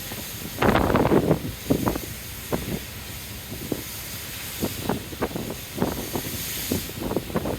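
Wind gusting over the microphone, irregular low buffeting bursts over a steady hiss, with a strong gust about a second in.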